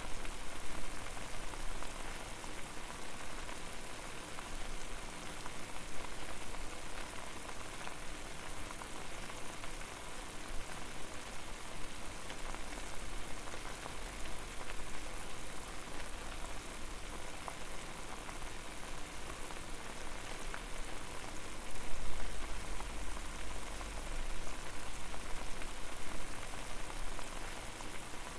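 Water at a rolling boil over a fire: a dense, steady bubbling and popping, with a low rumble underneath that swells briefly about two-thirds of the way through.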